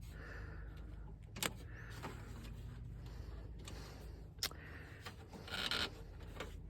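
Small sharp clicks and taps, two of them louder about one and a half and four and a half seconds in, then a short scraping rustle near the end. These are parts and tools being handled while a truck door's inner panel and clips are worked loose.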